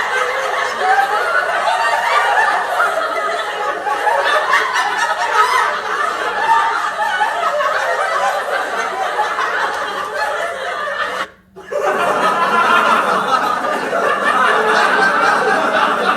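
A group of people laughing and chuckling together, many voices overlapping. About eleven seconds in it cuts out for a moment, then another stretch of group laughter begins.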